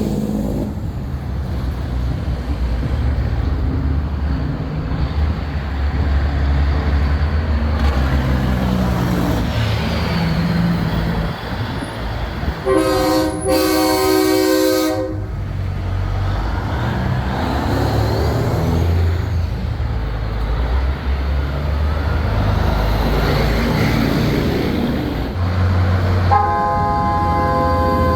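Big-rig trucks rumbling past, with a truck's air horn sounding one long chord-like blast of about two and a half seconds near the middle and another of about two seconds near the end.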